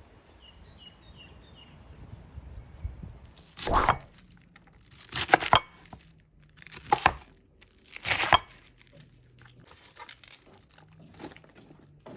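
Plastic packaging being crinkled and torn open, in four loud short bursts about a second and a half apart followed by lighter rustling.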